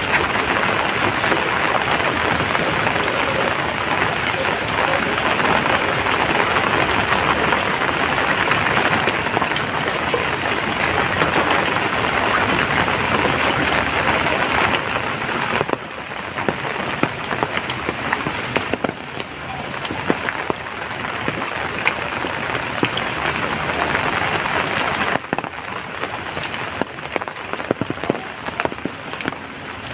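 Steady rain falling, with dense spatter that eases to a lighter patter about halfway through, where individual drops ticking can be picked out.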